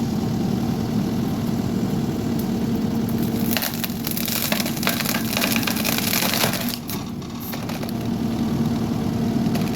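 Skid steer engine running steadily under hydraulic load while its tree shear bites into a tree trunk. The wood cracks and splinters for about three seconds midway through.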